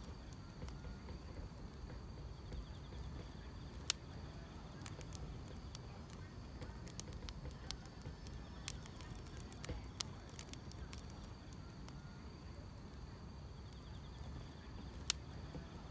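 Wood fire crackling: a steady low rumble with sharp pops now and then, the loudest about four and fifteen seconds in, over a faint steady chorus of crickets.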